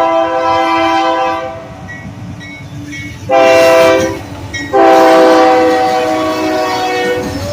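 C44AC diesel locomotive's multi-chime air horn sounding a horn salute: a blast that ends about a second and a half in, a short loud blast, then a long loud one. Train rumble runs underneath.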